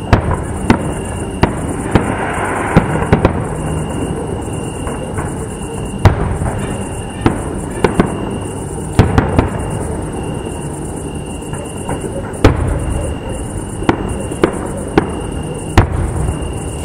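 Fireworks display: shells bursting in an irregular string of sharp bangs, roughly one or two a second, over a continuous rumble from the ongoing barrage.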